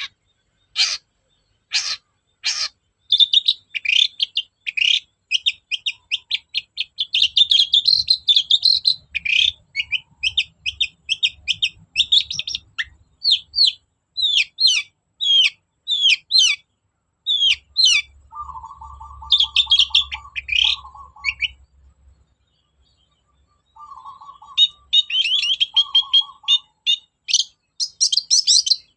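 Long-tailed shrike (cendet) singing: a few harsh, sharp calls, then long runs of fast, varied high chattering notes. Twice in the second half a lower, rattling trill cuts in among the song.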